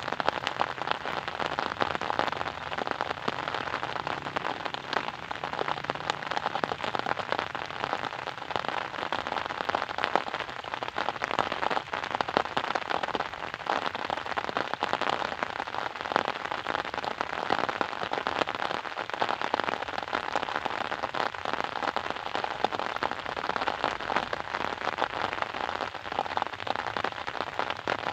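Steady rain falling on a hard surface, a dense patter of individual drop ticks over an even hiss.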